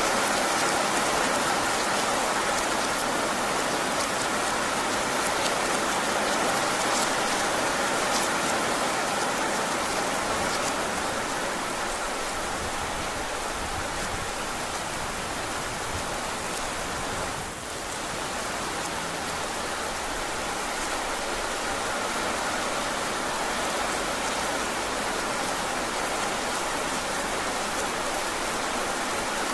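Heavy rain falling steadily, a dense, even hiss. It dips briefly in level a little past halfway through.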